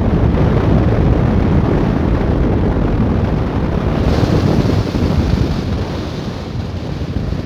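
Wind rushing over the microphone of a motorcycle at speed, with low engine rumble underneath; a higher hiss joins about halfway through, and the noise eases slightly near the end.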